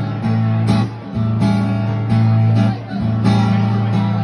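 Instrumental guitar music: a strummed, repeating rhythm riff over a strong, steady low bass note, with short breaks between phrases.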